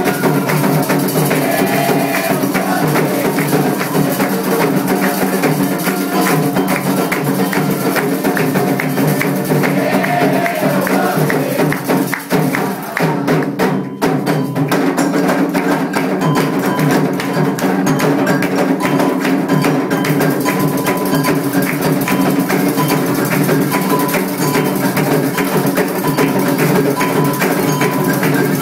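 Candomblé ritual percussion music: hand drums with a struck bell keeping a steady repeating pattern. It dips briefly about halfway through.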